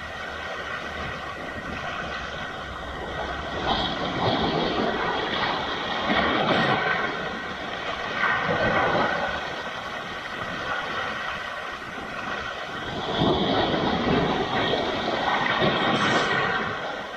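Sea waves washing in and breaking against rocks, the surf noise swelling and falling away in several surges.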